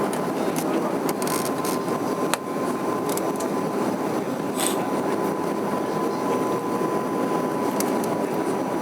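Steady rushing cabin noise of a moving vehicle, with a constant thin high hum running through it and a few faint clicks.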